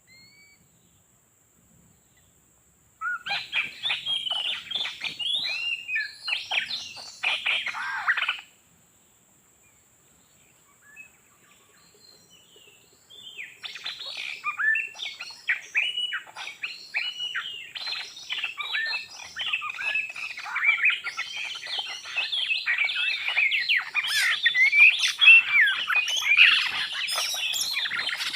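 Oriental magpie-robin (kacer) song, a rush of rapid whistles and chirps. One spell of song runs from about three seconds in and stops suddenly after about five seconds. After a pause it starts again and builds into dense, continuous singing.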